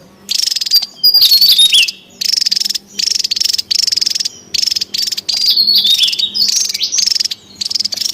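Javan tesia calling: a rapid series of about ten short, high, buzzy trills, some ending in sharp falling whistles, used as a lure and training call. A faint steady low hum lies underneath.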